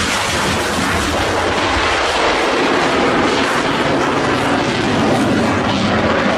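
Loud, steady jet engine noise from a fighter jet making a low pass.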